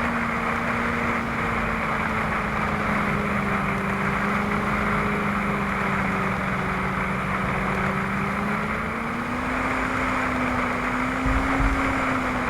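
Vehicle engine running steadily under a constant drone, its pitch sagging slightly midway and rising again near the end.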